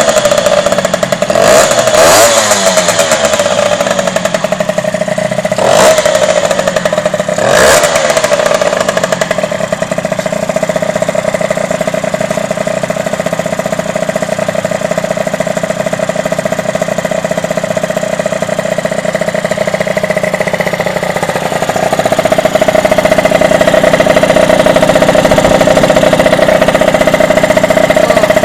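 The freshly rebuilt two-stroke engine of a Derbi DRD motorcycle running on its first start after restoration. It is blipped a few times in the first eight seconds, then runs steadily, getting a little louder about three-quarters of the way through.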